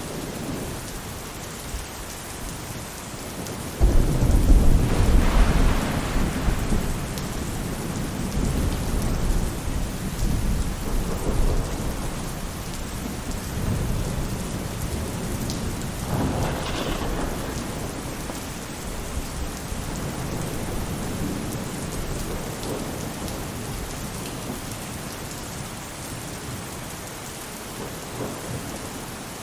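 Steady rain falling on a roof, with a sudden loud rumble of thunder about four seconds in that dies away over several seconds, and a weaker rumble later on.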